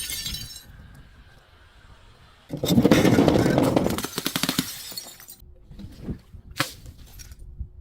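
Glass bottle breaking and being crushed: a loud crunching, crackling shatter of many small snaps starting about two and a half seconds in and lasting about two seconds, followed by a few lighter scattered clicks.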